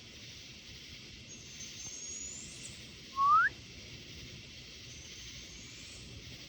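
An unidentified night animal's call: one short, loud whistle sliding upward, a little past the middle. A fainter, higher whistle rises and falls just before it. Underneath is a steady high hiss of summer night insects.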